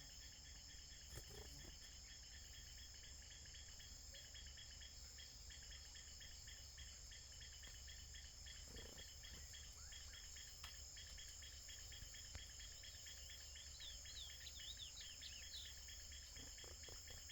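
Faint, steady chorus of crickets and other insects trilling, with a few quick falling bird notes about three-quarters of the way through.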